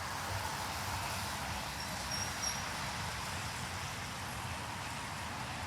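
Steady outdoor background noise, a low rumble under an even hiss, with a faint high chirp about two seconds in.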